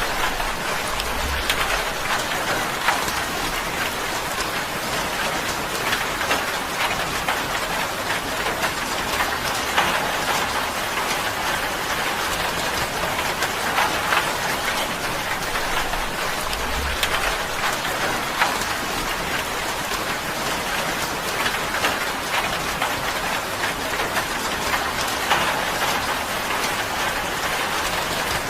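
Steady rain falling on a tin roof, a dense patter of drops striking the metal, with many louder single drops through it. A brief low rumble sounds twice, a second or so in and again about halfway through.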